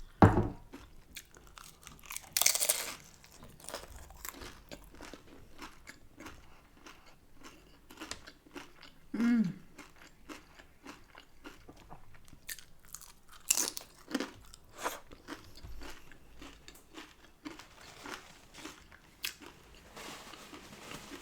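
Crunchy bites into a hard-shell beef taco and close-up chewing, with many sharp crunches of the fried corn shell and one longer, louder bite a couple of seconds in. A short falling hum of enjoyment from the eater comes near the middle.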